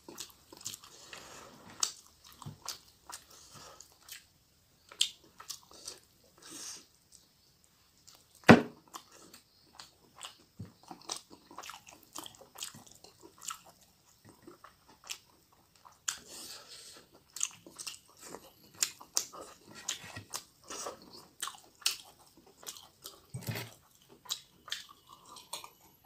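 Close-miked wet chewing and mouth clicks of a person eating fish curry and rice by hand, with irregular smacks and the tap and scrape of fingers on the plate. A single sharp knock about eight seconds in is the loudest sound.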